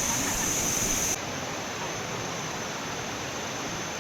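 Steady rush of water from a jungle waterfall. The hiss loses its top end abruptly about a second in.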